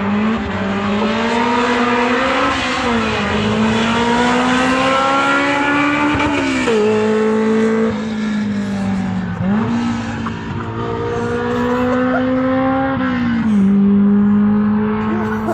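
Honda S2000 inline-four engine through an open header / straight-piped exhaust, heard from inside the car, pulling hard through the gears: the note climbs steadily, then drops sharply at each shift, about four times.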